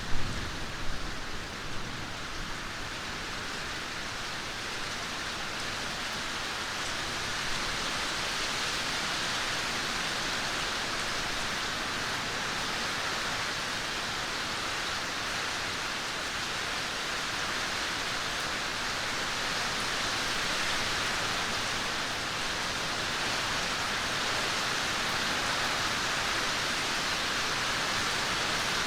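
Steady rainfall, an even hiss with no let-up. A few louder thumps come in the first second or so.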